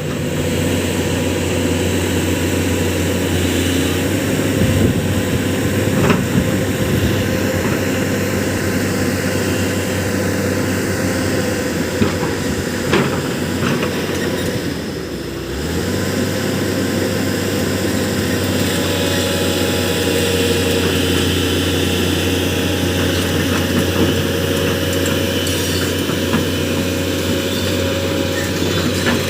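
Sany 220 excavator's diesel engine running steadily, with a brief change in its note about halfway through and a few sharp knocks.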